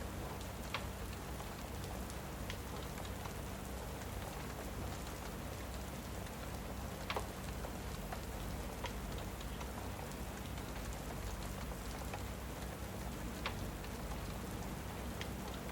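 Steady rain, with an occasional sharp pop or crackle from a wood fire, the loudest about seven seconds in.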